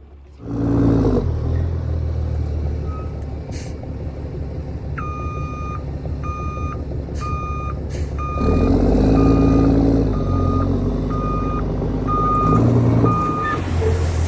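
A heavy diesel dump truck, a CAT C13-powered Kenworth W900B, runs with its engine swelling up a few times. A backup alarm beeps steadily from about a third of the way in, about one and a half beeps a second, and short air hisses come in between.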